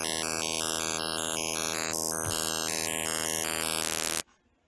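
A steganography challenge's .wav file playing back: a dense, steady drone of many stacked tones, with blocks of hiss switching on and off in the upper range. The blocks are a QR code drawn into the file's spectrogram. It cuts off abruptly about four seconds in.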